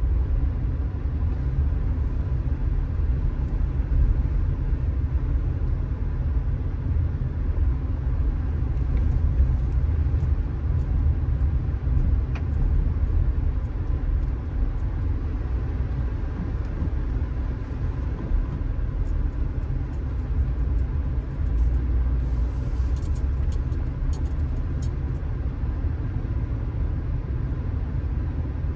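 Strong wind buffeting the phone's microphone, a steady heavy low rumble, with sea waves breaking on the shore mixed in.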